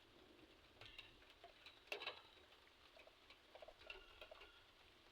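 Near silence with a few faint, irregular ticks and clicks, the loudest about two seconds in.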